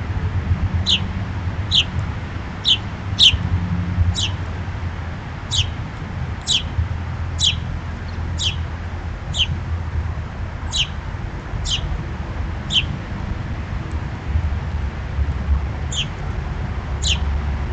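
A bird repeating a single short, high chirp that falls in pitch, about once a second, pausing for a few seconds near the end before resuming. A steady low rumble runs underneath.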